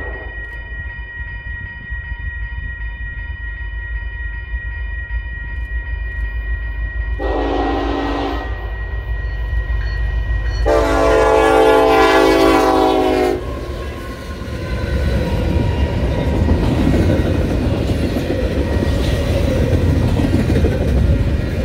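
Union Pacific diesel locomotives approaching with a low engine rumble, the air horn sounding a short blast about seven seconds in and a longer blast about eleven seconds in. The double-stack container cars then roll past with a steady rumble of wheels on rail.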